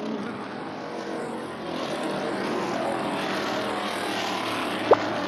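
A steady rushing noise, with one short, sharp blip about five seconds in.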